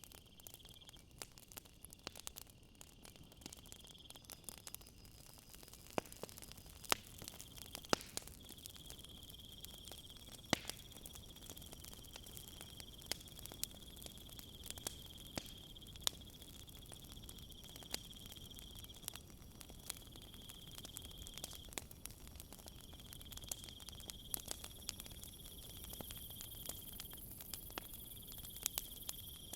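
Wood fire crackling with scattered sharp pops, over a steady high insect trill that runs in stretches of a few seconds with short breaks; a second, higher insect buzz joins near the end.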